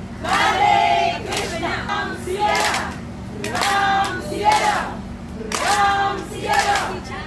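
A group of voices chanting together in unison, a short phrase repeated in waves about every two to three seconds.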